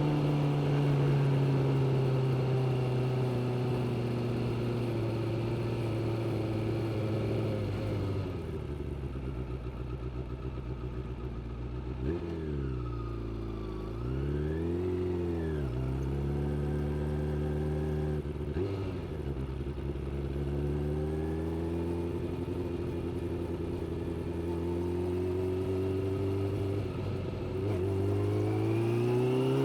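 Suzuki GSX600F's inline-four engine, heard from the rider's seat. The revs fall steadily as the bike slows, then settle low. Two quick throttle blips rise and fall, and a smaller one follows. It then holds steady running, and the revs climb near the end as the bike accelerates away.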